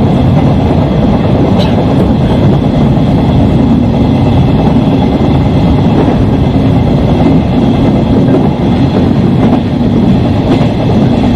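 Electric commuter train running along the track, heard from inside the front cab: a steady loud rumble of wheels on rails with a few faint clicks from the track.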